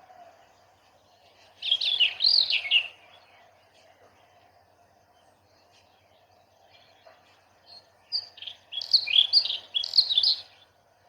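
A songbird singing two phrases of rapid, varied high chirping notes, the first about two seconds in and the second, longer one near the end.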